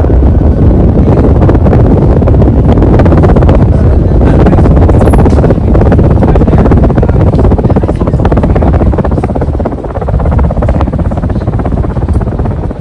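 Loud, steady low rumble of air buffeting the microphone, easing slightly about ten seconds in.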